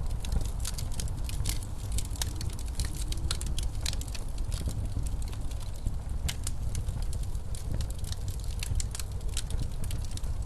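Fireplace crackling, with many sharp, irregular pops, over a steady low rumble of blizzard wind.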